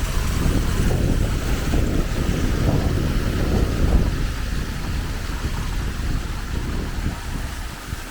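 Wind buffeting the microphone: a loud, uneven low rumble over a steady hiss, easing off near the end.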